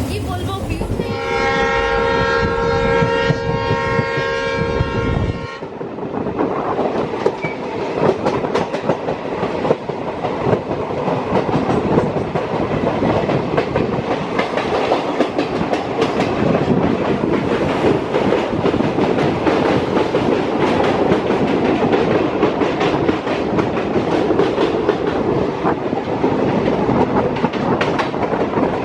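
Train horn sounding a steady chord of several tones for about four seconds, then the continuous rumble and clickety-clack of a passenger train running on the rails.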